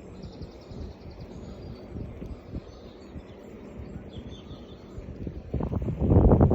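Faint birdsong, with a few high chirps and a short trill, over a low irregular rumble that swells much louder about five and a half seconds in.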